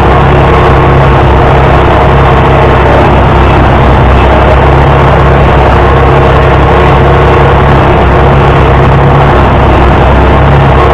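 International Harvester 560 tractor engine running steadily under a loud, even drone with no change in speed.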